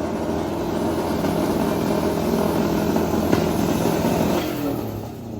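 A car engine is held at high revs with a steady pitch. About four and a half seconds in it drops back and fades.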